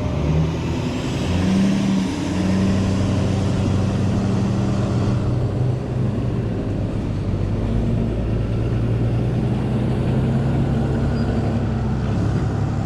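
Engine running steadily at low speed, a low even hum with a rumble underneath.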